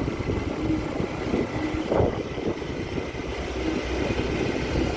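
A small boat's engine running steadily, with a brief louder knock about two seconds in.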